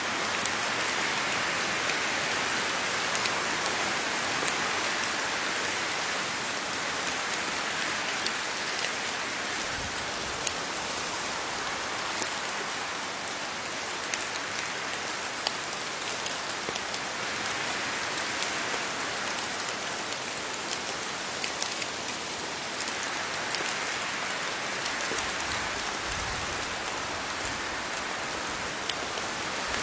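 Steady rain falling on leaves, a continuous patter with many individual drops ticking sharply throughout.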